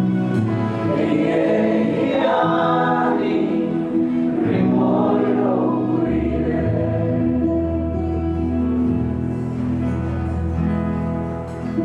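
Worship music: a group of voices singing over sustained chords from instruments. A deep bass note comes in about halfway through.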